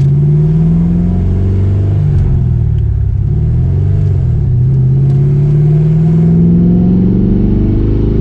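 Ford Mustang GT's 4.6-litre two-valve V8 accelerating under load, its pitch climbing, dropping sharply about two seconds in, then climbing slowly again.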